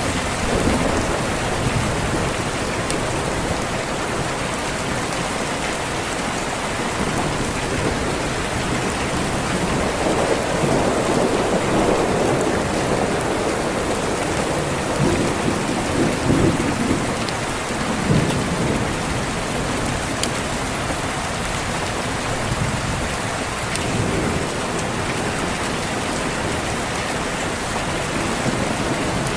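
Steady rain with rolling thunder; the thunder rumbles loudest in the middle, for several seconds.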